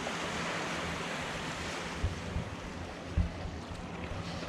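Small waves washing on a sandy beach: a steady surf hiss that swells near the start, over a faint low hum. Two short low thumps come about two and three seconds in.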